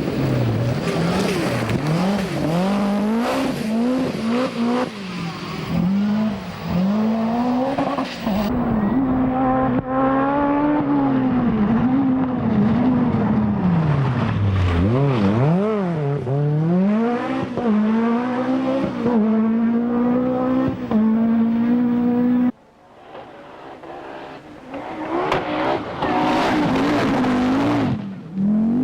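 Group B rally car engines running flat out, the pitch climbing hard and dropping sharply again and again through gear changes and lifts. About three-quarters of the way in the sound cuts abruptly and comes back quieter before building up again.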